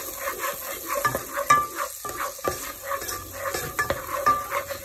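Sliced onion and tomato sizzling in hot vegetable oil in a nonstick pot, stirred with a spoon that scrapes and taps against the pot again and again.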